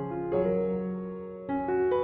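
Background piano music playing slow, held chords, with a new chord struck about a third of a second in and another about one and a half seconds in.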